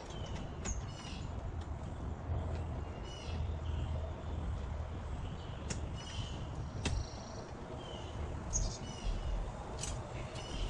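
Wild birds chirping and singing in short repeated phrases, with a few sharp clicks from telescope tripod parts being handled.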